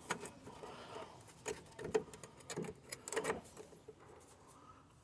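Scattered light clinks and knocks of a cut sheet-steel patch panel being handled and pressed into place for a test fit against the car's bodywork, a few sharp taps spread over the few seconds.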